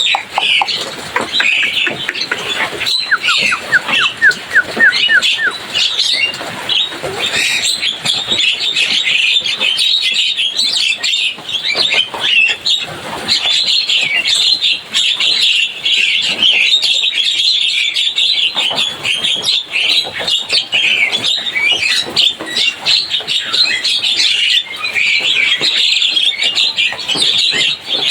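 Javan myna chattering without pause in a dense stream of quick chirps and squawks. About three seconds in comes a quick run of some eight short rising whistled notes.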